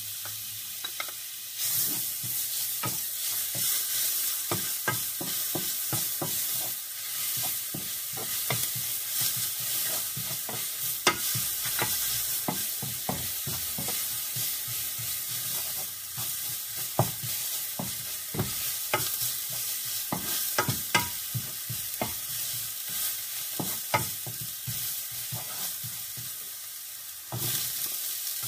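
Chopped garlic sizzling in hot oil in a frying pan, with a wooden spatula stirring and repeatedly clicking against the pan. Near the end the sizzle dips and changes as sliced onions are tipped into the oil.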